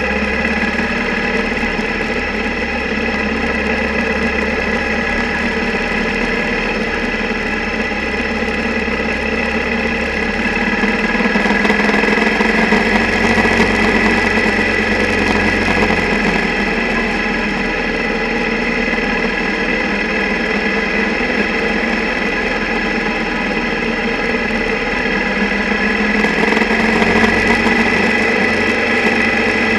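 Single-cylinder motorcycle engine running steadily, picked up mostly as vibration through the camera's mount, with the camera rattling inside its underwater housing from the engine's vibration. It grows a little louder twice, in the middle and near the end.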